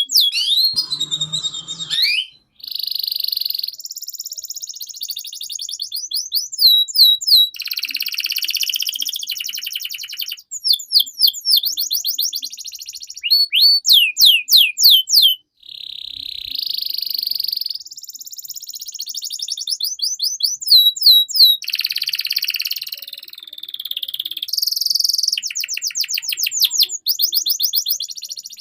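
Domestic canary singing a long, continuous song: phrases of rapid repeated falling notes alternate with buzzy rolling trills. The song breaks off twice very briefly, a couple of seconds in and about halfway through.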